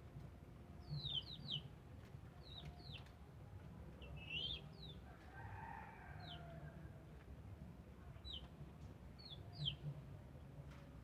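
Small birds chirping: short, high notes that sweep downward, scattered through the whole stretch about once a second. A distant rooster crows about five seconds in, over a low background rumble.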